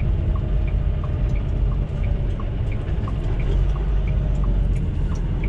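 Semi truck's diesel engine running with a steady low rumble heard inside the cab, while the turn signal ticks evenly about three times a second in alternating higher and lower clicks.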